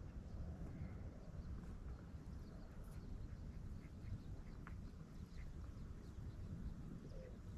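Ducks calling faintly, short scattered calls over a steady low rumble of wind on the microphone.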